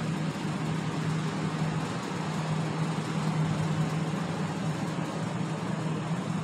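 Passenger train idling at a station platform: a steady drone with a constant low hum.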